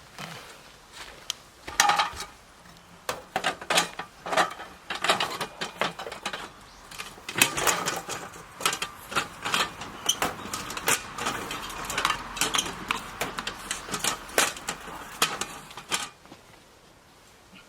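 Irregular clatter of sharp knocks and clinks from objects being handled, stopping about sixteen seconds in.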